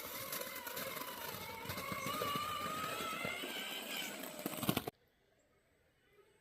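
Electric motor and gears of a radio-controlled scale truck whining under way, the whine rising in pitch, with clicking and clattering from the drivetrain and terrain. It cuts off suddenly about five seconds in.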